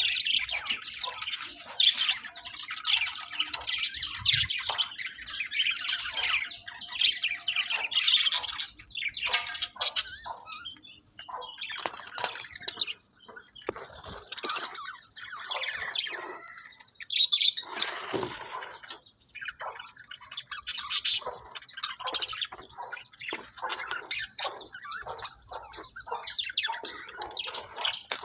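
Budgerigars chattering, with rapid chirps and warbling calls, densest in the first third and thinning briefly a few times.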